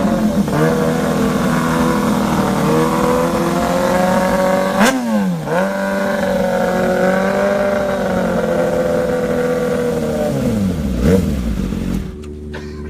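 Superbike engines at high revs, the pitch climbing and then swooping sharply down and back up about five seconds in and again near eleven seconds. The engine sound drops off suddenly just before the end.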